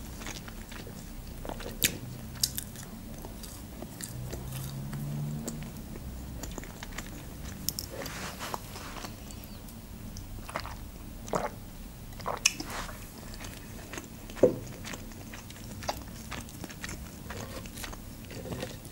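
Close-miked eating of McDonald's chicken nuggets: chewing with sharp bites now and then, and a sip of drink through a straw about halfway through.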